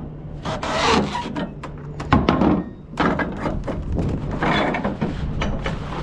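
Several irregular thunks and knocks over the steady low hum of an idling engine.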